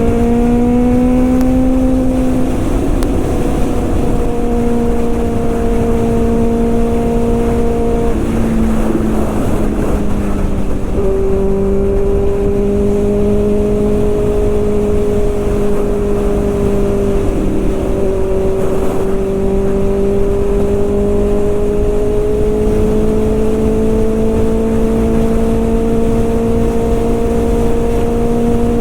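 Kawasaki ZX-6R's inline-four engine running at steady revs under way. Its note drops about eight seconds in, then climbs slowly through the rest, over a steady rushing noise.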